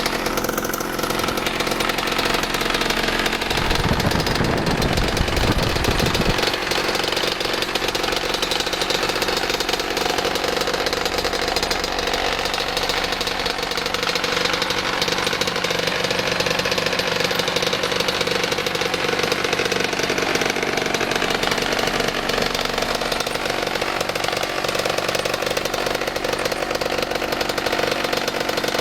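Yamaha engine of a homemade paratrike running steadily, with a louder, deeper rumble for about two seconds around four seconds in.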